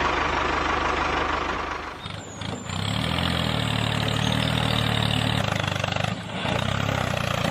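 Mini tractor engine sound running steadily with a fast chugging pulse, dipping briefly about two seconds in and again near six seconds.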